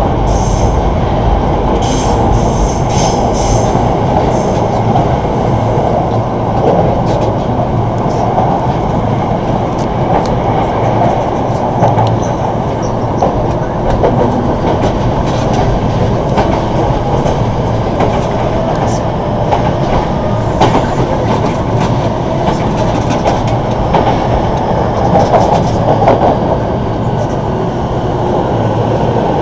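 Electric commuter train running, heard from inside the carriage: a steady rumble of wheels on rail with scattered clicks from the track. There is a brief high wheel squeal about two seconds in.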